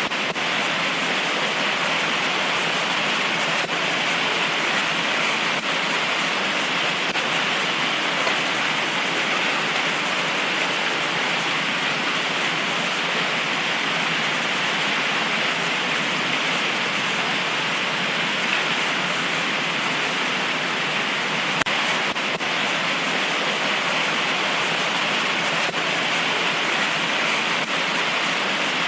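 Heavy tropical rain pouring down steadily, an even hiss of rainfall with no thunder.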